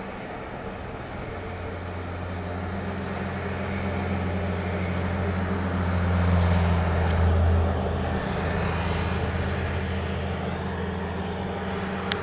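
Airbus A320neo jet's engine noise, a steady low drone that swells to its loudest about six to eight seconds in and then eases off.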